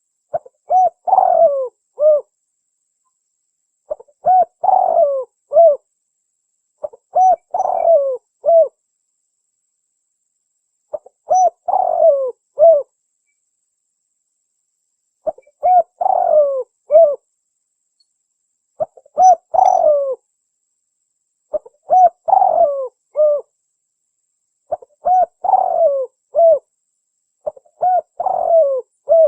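Spotted dove cooing: nine repeated phrases about every three seconds, each a short run of coos ending in a separate final note, with silence between phrases.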